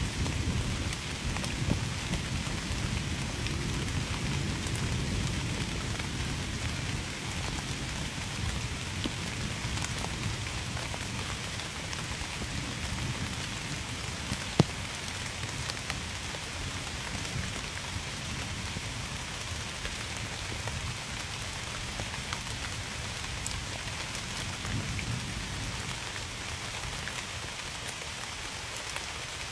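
Steady rain falling, with individual raindrops ticking among the hiss. A low rumble of thunder fades away over the first several seconds, and one sharp drop-like tick stands out about halfway through.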